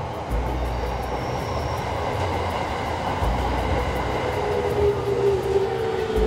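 Train running on the rails, a steady rumble. In the second half a whine slowly falls in pitch.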